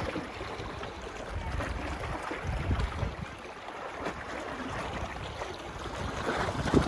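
Small waves washing onto a sandy beach in irregular surges, with low gusts of wind buffeting the microphone.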